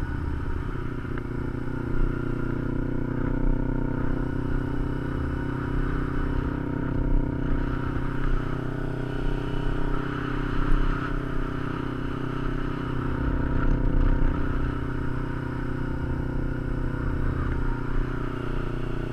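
Kawasaki Ninja 250 parallel-twin engine running steadily while the motorcycle is ridden at an even speed, heard from a camera mounted on the bike.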